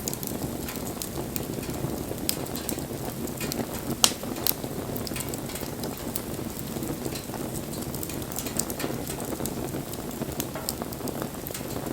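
Wood fire burning, crackling with a steady low rush of flame and many scattered pops; one sharp, loud pop about four seconds in.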